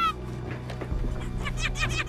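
Background music with a steady low note, and near the end a rapid, high-pitched, honk-like cackle from a cartoonish voice.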